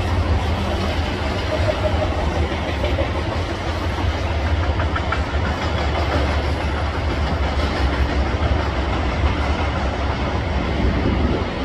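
Freight train of enclosed autorack cars rolling past at steady speed: a continuous rumble of steel wheels on rail.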